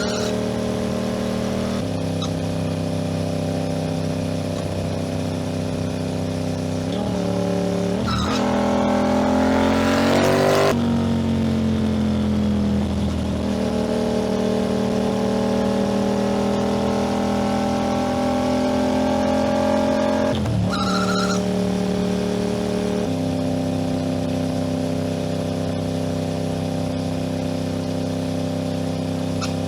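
Aprilia RS 660 parallel-twin engine running under way. The pitch rises for a few seconds, drops about a third of the way in as the bike slows, climbs slowly again, breaks briefly about two-thirds in, then settles into steady cruising.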